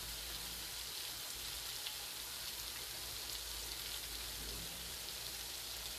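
Vegetables, egg and rice frying in a hot wok: a steady, even sizzle.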